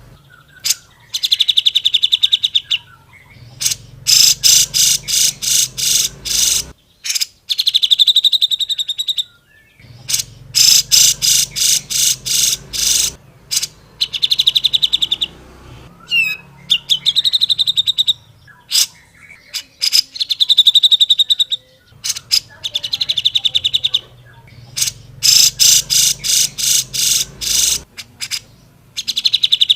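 Cucak jenggot (grey-cheeked bulbul) singing loudly and without pause, in bursts of rapid, evenly repeated chattering notes, each phrase a second or two long, separated by short breaks.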